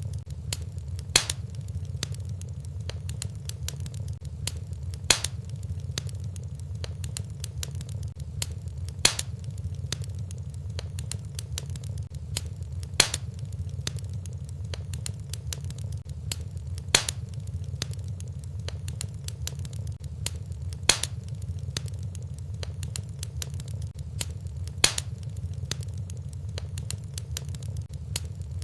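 Fireplace wood fire crackling over a steady low rumble, with a sharper pop about every four seconds. The evenly spaced pops are the mark of a looped fire recording.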